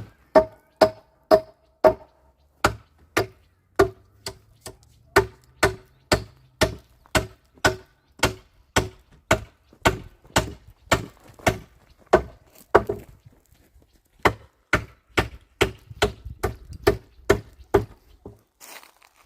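A hand tool striking wood over and over in a steady rhythm, about two blows a second, each blow with a short ringing note; the strokes pause briefly near the end.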